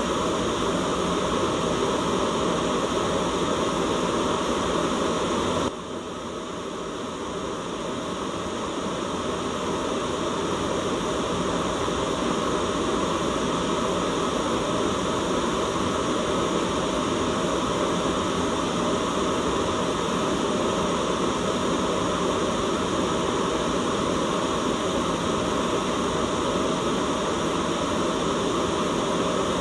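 Steady white noise, weighted toward the low end, with a sudden dip in level about six seconds in that eases back up over the next few seconds.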